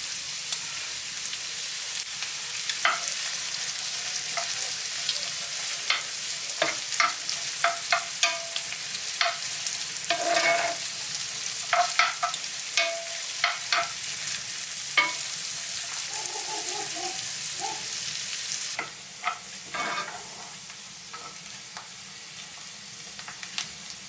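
Food sizzling in a hot frying pan while a utensil stirs it, with frequent scrapes and clicks against the pan. The sizzle grows quieter about three-quarters of the way through.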